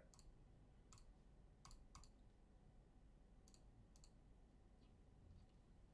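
Near silence broken by about six faint, sharp clicks scattered over the first four seconds, with a couple of weaker ones near the end.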